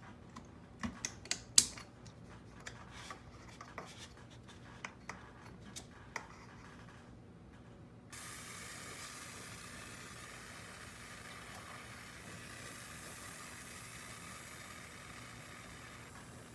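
A run of sharp clicks and knocks from handling tools or parts, then a steady hiss that starts suddenly about eight seconds in and holds on.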